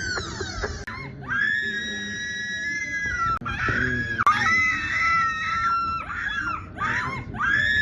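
A person screaming in long, very high-pitched shrieks: one held cry about a second in, a wavering cry through the middle, a few short cries, then another long shriek starting near the end.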